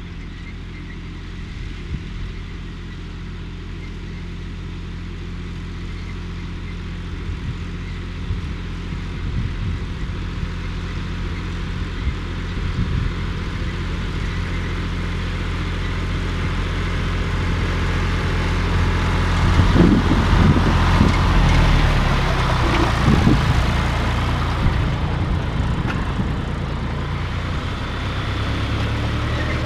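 John Deere 1030 tractor's three-cylinder diesel engine running under load, growing louder. About two-thirds through, the engine note shifts and bends, with a few uneven knocks.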